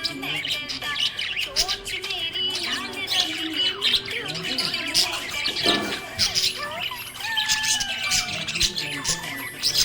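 Budgerigars chirping and squawking: a continuous chatter of many short chirps, sliding whistles and harsher squawks overlapping one another.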